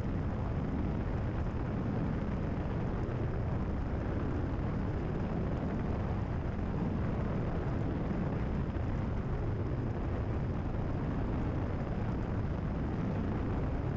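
Cessna 172RG's four-cylinder engine and propeller droning steadily at cruise power in level flight, heard from the cockpit.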